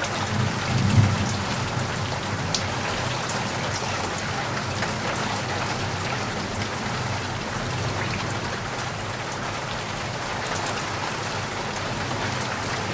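Steady rainfall with scattered individual drops ticking on a surface. A low rumble runs underneath and swells briefly about a second in.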